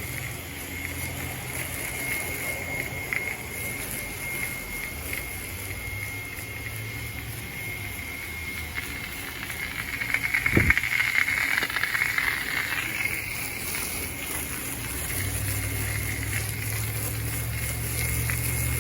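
Car wash pressure-washer wand spraying water over a steady machine hum and high whine, the spray getting louder for a few seconds about ten seconds in, with a single knock.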